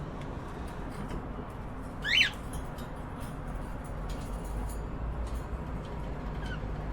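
Cockatiel giving one short, loud call about two seconds in, sweeping steeply upward in pitch, with a much fainter short chirp near the end, over a steady low hum.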